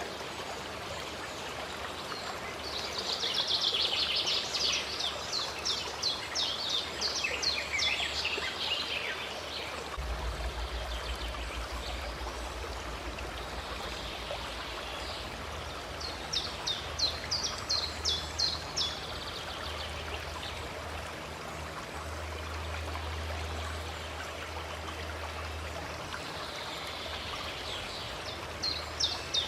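Running stream water flowing steadily, with birds singing over it: two bursts of fast, repeated high notes, one a few seconds in and another a little past the middle.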